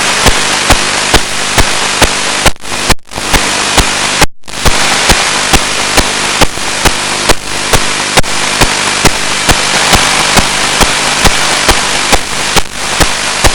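Loud steady static hiss from an analog FPV video receiver's audio channel, broken by a regular click about two to three times a second and two brief dropouts to silence about three and four seconds in.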